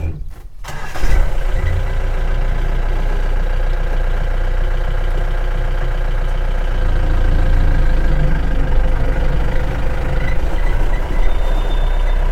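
Safari vehicle's engine running as it pulls away, rising sharply about a second in and then holding a steady low hum.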